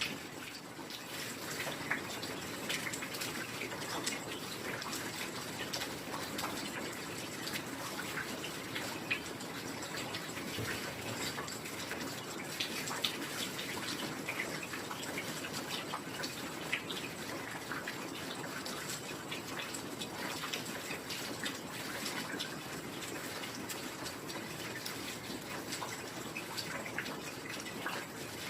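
Heavy rain falling steadily, with a dense patter of individual drops hitting nearby surfaces.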